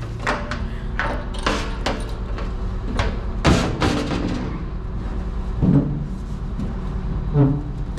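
An engine running steadily under a series of about eight heavy clunks and knocks, spaced unevenly.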